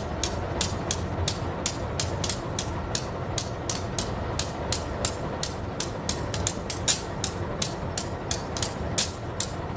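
Loaded coal-train wagons rolling past at low speed: a steady rumble with the wheels clicking over the rail joints about three to four times a second.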